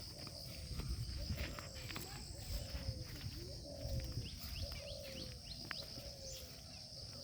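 Outdoor garden ambience: a steady high insect drone, with short falling calls repeating about once a second and scattered bird chirps over a low rumble.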